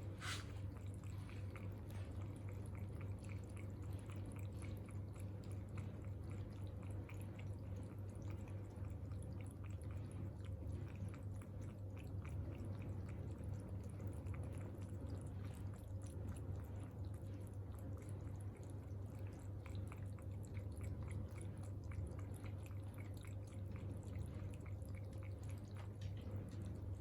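A cat eating, with faint, rapid, irregular mouth clicks over a steady low hum.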